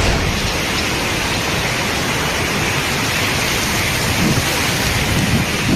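Steady rushing noise with a low rumble underneath, of the kind heavy rain or strong wind makes.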